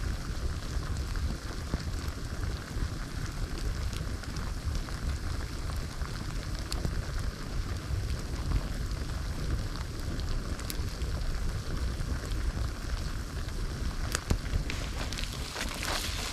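Campfire crackling, a steady hiss with scattered sharp pops, over a continuous low rumble.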